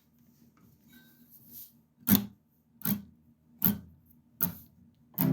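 Four evenly spaced knocks about 0.8 s apart, a count-in, then an acoustic guitar strum starts at the very end. Before the knocks there are only a faint hum and small rustles.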